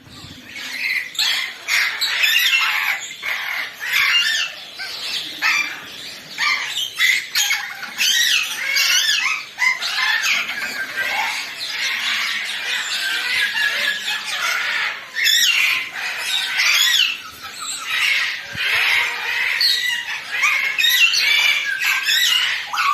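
Many birds calling at once: a dense, continuous chatter of overlapping chirps and squawks.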